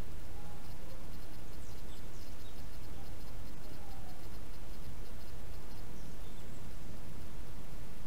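Wild birds calling faintly and sparsely: a few short, high, down-slurred whistles and some lower single notes over a steady hiss and low rumble.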